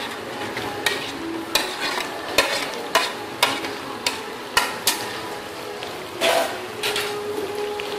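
Chopped tomatoes dropped into hot ghee with frying beef and onions in an aluminium pot, sizzling steadily. A metal spoon and spatula scrape and knock against the plate and the pot about once or twice a second as the tomatoes are stirred in.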